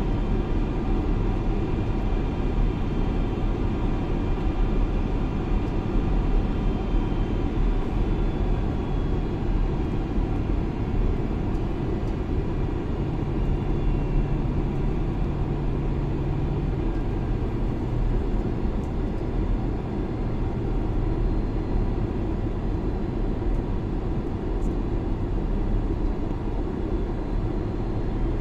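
Steady jet airliner engine and airflow noise inside the cabin during the approach to landing. A low hum comes in about halfway and drops slightly in pitch.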